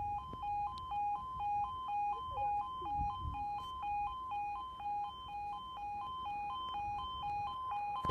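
UK level crossing alarm sounding its two-tone warning, switching steadily between a lower and a higher tone about three times a second, a sign that a train is approaching and the barriers are lowering.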